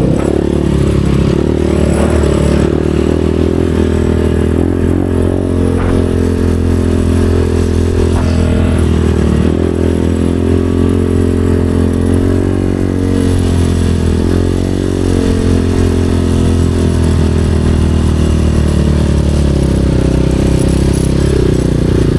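Dirt bike engine running steadily, its revs dipping and rising slightly a few times.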